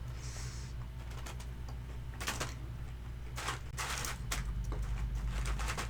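Crunchy chewing of a mouthful of crispy Korean fried chicken close to the microphone: crackling crunches that come in a few short spells, the busiest near the middle and end.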